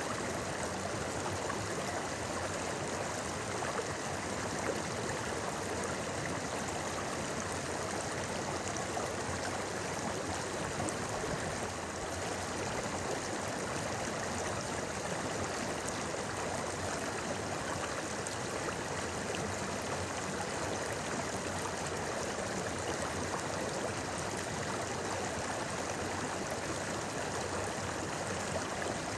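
River water flowing steadily, an even, unbroken rush and babble of a stream.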